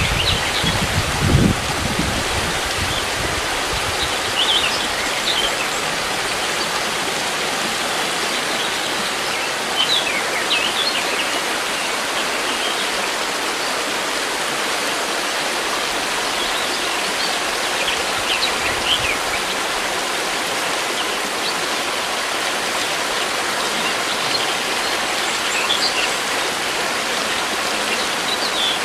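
River water rushing steadily, with small birds chirping now and then over it.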